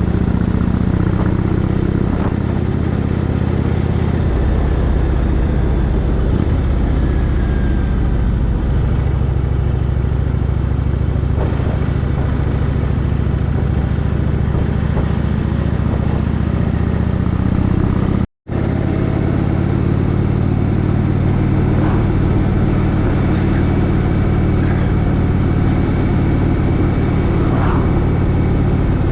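Motorcycle engine running steadily at cruising speed while riding. The sound drops out for a split second a little past halfway, then carries on the same.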